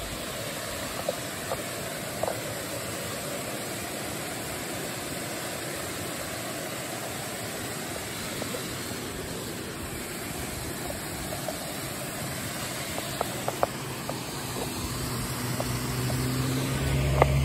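Steady rush of a mountain river. In the last few seconds a car's engine approaches, a low hum growing louder.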